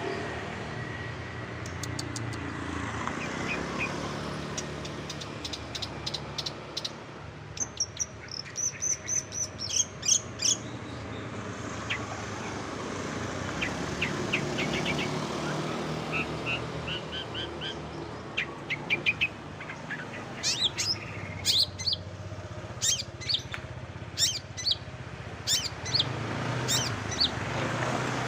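Long-tailed shrike (cendet) singing a medley of mimicked calls of other birds: runs of sharp, high, quick chirps and trills, in two spells separated by a pause, over a steady low hum.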